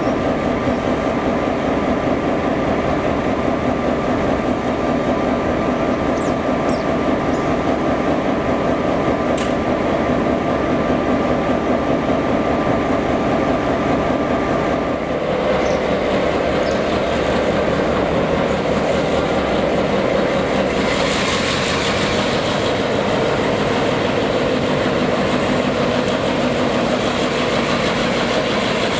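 Locomotive-hauled train running: a steady mechanical hum with several held tones that shifts pitch about halfway through, and a burst of hiss about two-thirds of the way in.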